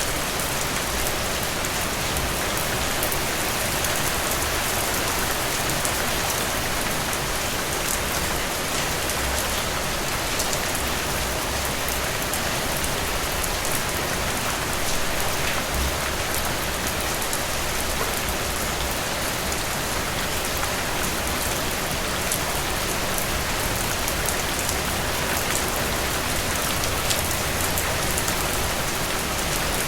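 Steady rain falling, an even hiss with individual drop hits ticking through it now and then.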